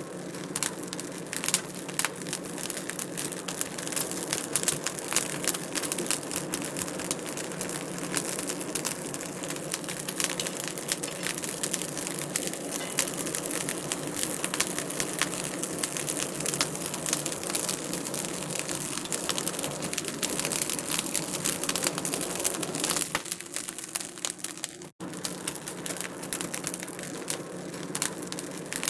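Wood fire crackling steadily, with dense small pops and snaps over a soft hiss; the sound briefly cuts out near the end.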